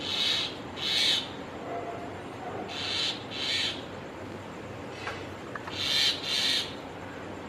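A bird calling: a repeated pair of short, high notes, three pairs about three seconds apart, over a faint steady background hiss.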